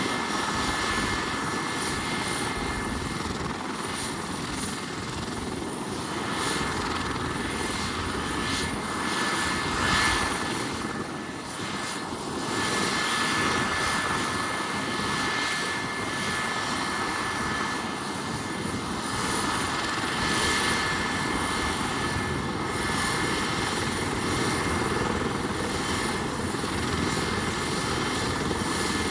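Helicopter turbine engine and rotor running steadily on the ground, a continuous rushing noise with a steady high-pitched whine.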